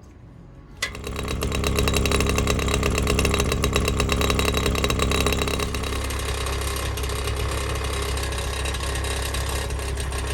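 BMW M135i's turbocharged straight-six idling, heard from under the car, with a fast, steady rattle from the loose exhaust flap valve whose actuator pin has broken. It starts about a second in.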